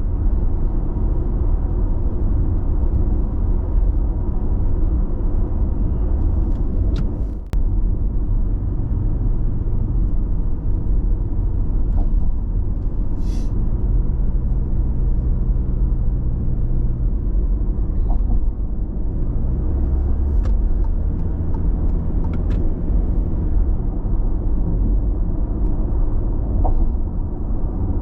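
Steady tyre and engine rumble of a car cruising at constant speed on an expressway, heard from inside the cabin, with a brief dip in level about seven and a half seconds in.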